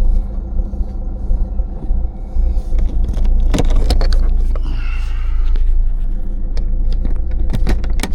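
Vehicle engine idling, a steady low rumble heard from inside the cab, with a few sharp clicks and rattles about halfway through and again near the end.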